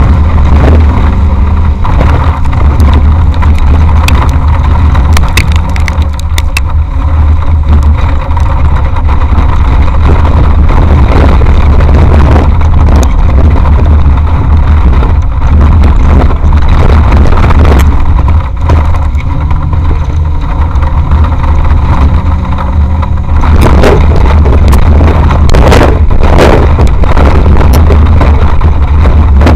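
Off-road race vehicle driving hard over rough ground, heard from an action camera mounted on board: loud, overloaded engine and drivetrain rumble with frequent knocks and rattles from the body, with clusters of them about six seconds in and again near the end.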